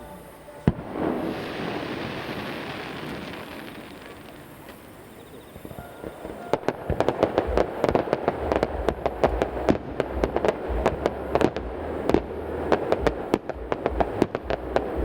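Fireworks display: a single sharp bang about a second in, followed by a few seconds of hissing crackle. From about six seconds in comes a rapid run of many sharp bangs and crackles, several a second, over a low rumble.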